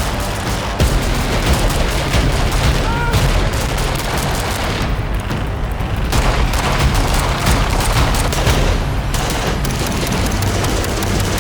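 Rapid gunfire, many shots in quick succession, with music carrying a heavy bass underneath.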